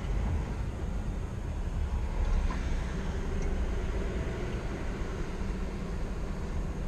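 Scania R490 truck's 13-litre inline-six diesel engine running, a steady low rumble.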